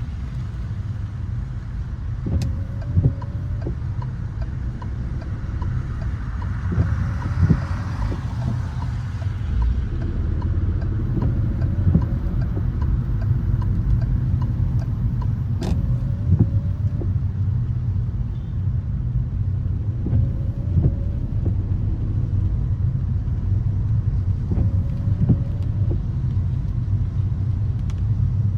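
Car driving on wet city streets: a steady low rumble of engine and tyres, with a short sound repeating every two seconds or so and a brief swell of road noise about seven seconds in.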